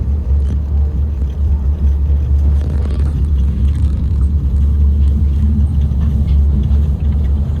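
Moscow Monorail train running between stations: a steady, loud low rumble of the car moving along the track.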